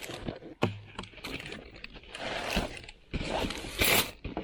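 Zipper on a soft cooler bag being pulled along in several short strokes, with a knock and the rustle of the bag being handled; the loudest zip comes near the end.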